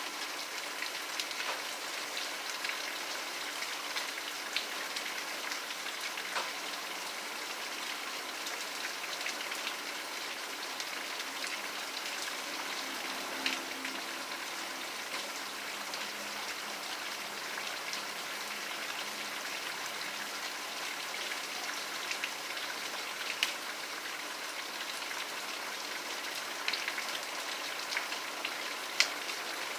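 Steady rain falling, an even hiss with scattered sharper drop ticks, a few louder drops standing out late on.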